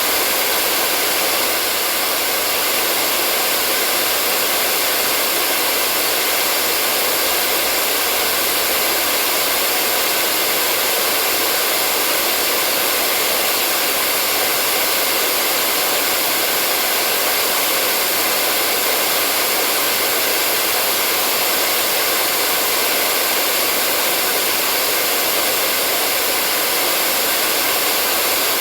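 Hair dryer running steadily: an even, unchanging rush of air with a faint motor hum.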